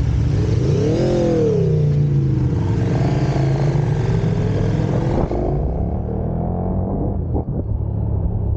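Motorcycle engine running under way, revving up and dropping back about a second in, then carrying on at a duller, more muffled tone from about five seconds in.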